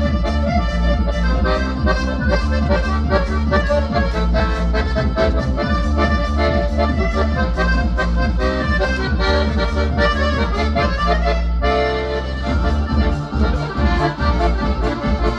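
Accordion music playing with a steady bass line, the texture changing about twelve seconds in.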